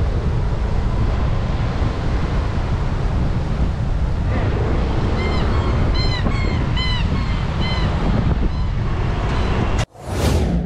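Heavy rain pouring, with wind buffeting the microphone: a loud, steady rush. Midway a string of short squeaky chirps sounds over it. Near the end the sound cuts out for an instant, then a loud hiss bursts in.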